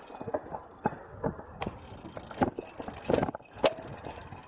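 Road bicycle rolling along, its frame and gear giving off a series of irregular sharp knocks and rattles over bumps, the loudest near the end.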